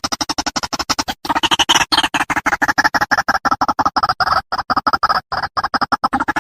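White-breasted waterhen (ruak-ruak) calling: a rapid, continuous series of short croaking notes, about nine a second.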